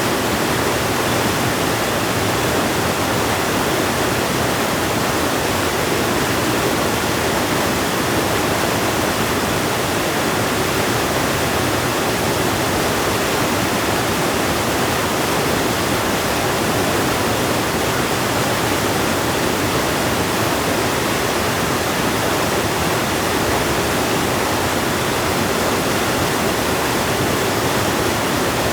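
River water rushing, a loud steady noise that holds even throughout.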